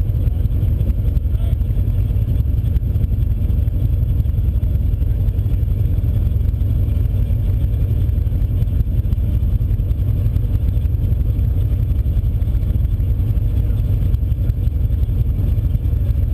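A car's engine idling, heard from inside the cabin as a steady low rumble that stays even throughout.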